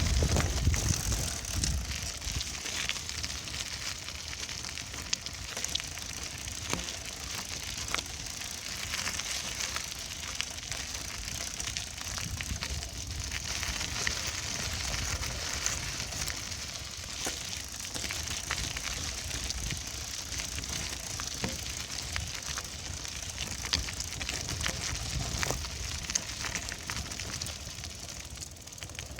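Bicycle being ridden, its tyres crackling and crunching steadily over a rough path surface, with a low rumble underneath.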